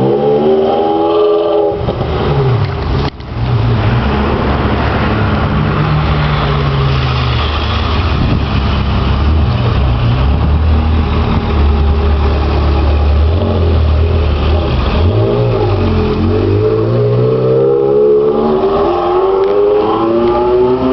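Ferrari 360 Modena's V8 revving up, with rising engine pitch in the first second or so and again through the last few seconds after a shift. Between them a steady, lower engine drone runs for several seconds.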